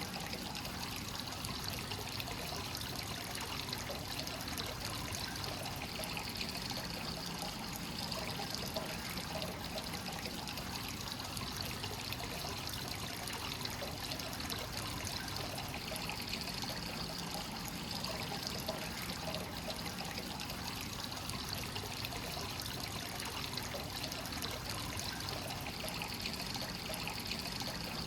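Hot spring water pouring continuously into a bath from a free-flowing source, a steady trickling pour that swells and eases slightly.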